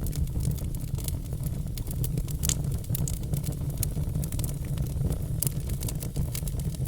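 Log fire burning, a steady low roar with frequent sharp crackles and pops, a few louder snaps among them.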